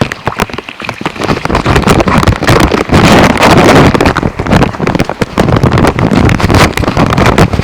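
Heavy rain pelting the plastic bag wrapped over the camera: a loud, dense patter of big drops striking close to the microphone, with wind buffeting it.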